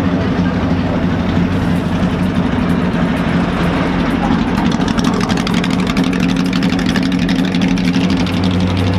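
Classic racing sports car's engine idling loudly and steadily. From about halfway a rasping edge joins in as the car pulls away at walking pace.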